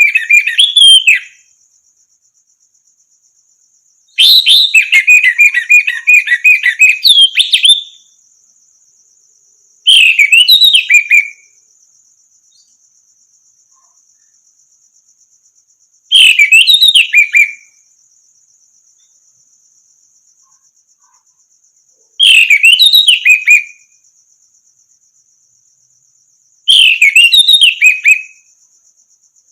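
Orange-headed thrush singing: six varied whistled phrases, one to four seconds each, the second the longest, separated by pauses of several seconds. A faint steady high-pitched tone runs underneath.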